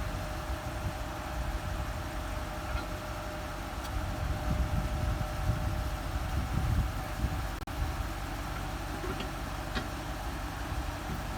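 An engine idling steadily, with a momentary dropout about two-thirds of the way through.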